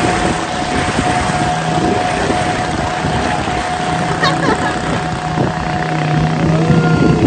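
Waterfall's rushing water: a loud, steady roar with a faint steady hum running through it.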